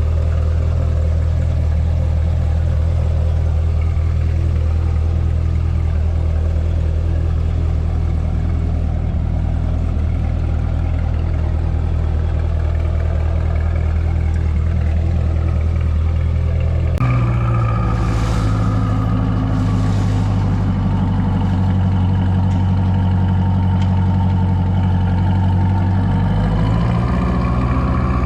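Twin-turbo C8 Corvette's 6.2-litre V8, through a custom exhaust, idling steadily. About seventeen seconds in the sound changes abruptly to a higher idle that slowly settles lower.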